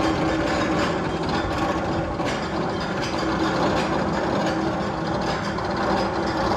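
Tunnel sound effect on the Magnum XL-200 coaster: continuous mechanical clattering and ratcheting over a steady hum, with irregular clicks throughout.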